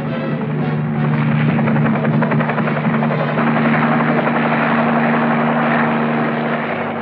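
Helicopter running, a rapid rotor beating over a steady engine hum.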